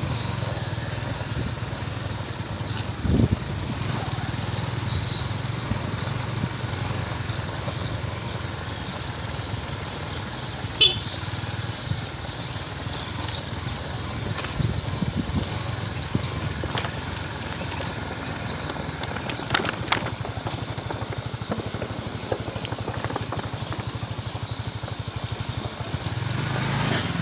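Motorcycle engine running steadily, with a couple of short knocks along the way.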